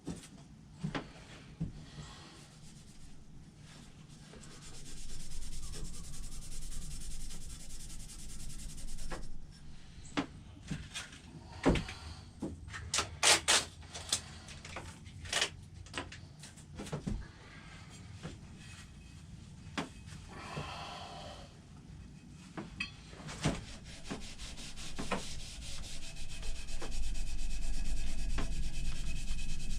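Steel axe head being rubbed by hand with an abrasive to polish off rust: stretches of scratchy back-and-forth rubbing, with a run of sharp taps and clicks in the middle, and the rubbing louder near the end.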